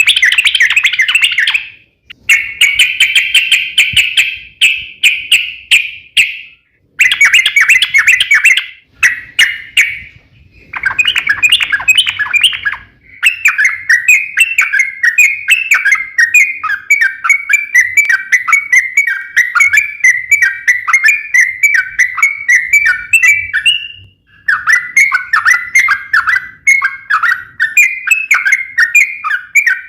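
Yellow-vented bulbul (trucukan) singing long, rapid chattering phrases of fast-repeated notes, the drawn-out 'ropel panjang' song used as a lure to make kept bulbuls answer. There are short pauses between phrases, and one long unbroken run lasts about ten seconds from a little before the middle.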